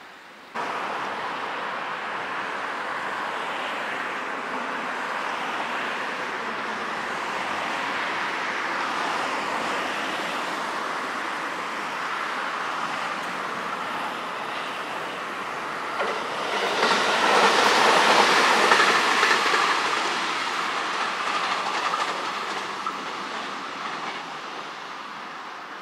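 JR West 521 series electric multiple unit running past on the rails, a rumble with wheel clatter that is loudest about 17 to 20 seconds in and then fades as the train draws away.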